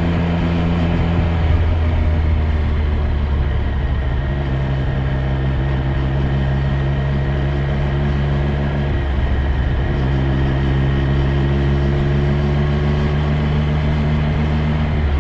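Triumph Street Triple 765 R's inline three-cylinder engine running at fairly steady revs while riding. There is a small drop in pitch about a second and a half in and a brief dip around nine seconds.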